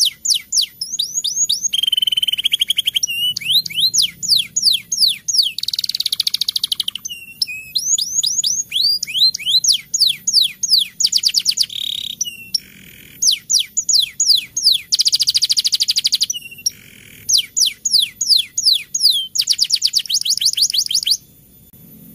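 Domestic canary singing a long, loud rolling song. Series of quick falling whistles alternate with rapid buzzing trills, and the song stops abruptly near the end.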